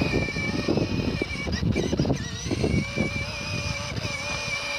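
Battery-powered ride-on toy police motorbike running: a steady high whine that wavers slightly and dips briefly a couple of times, over a rough low rumble.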